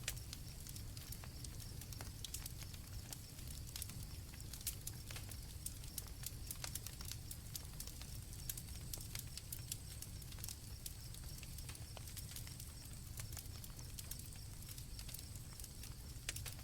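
Campfire crackling with irregular sharp pops over a low rumble, with crickets trilling steadily and high-pitched in the background.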